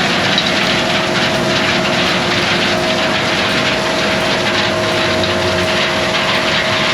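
Heavy diesel farm machinery engine running steadily, a constant drone with a held tone over it.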